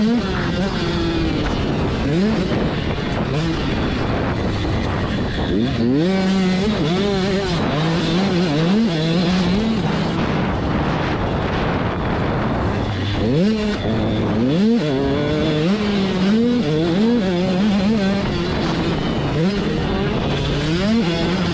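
Dirt bike engines running on a motocross track, their pitch repeatedly climbing and dropping as the riders rev through the gears. There are several sharp rising revs along the way, around six seconds in and twice more in the middle.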